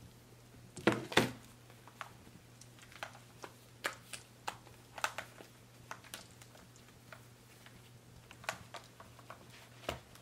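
Wood fire crackling: irregular sharp pops and snaps, the two loudest about a second in, over a low steady hum.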